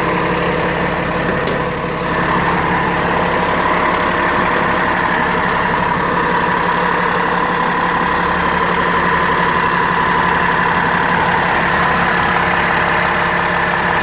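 Cummins ISL inline-six turbo-diesel idling steadily in a rear-engine school bus, heard at the open engine compartment. A steady higher hum joins the engine sound about two seconds in.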